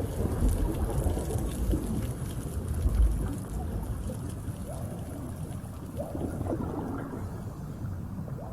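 Underwater ocean ambience: a steady low rumble and wash of moving water, with fine crackling clicks in the first couple of seconds and a few faint short rising squeaks later.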